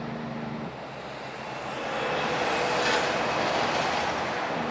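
A truck passing by on a road: tyre and engine noise swells to a peak about three seconds in, then eases off.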